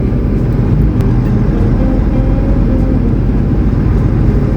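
Semi-truck engine running with a steady, low drone.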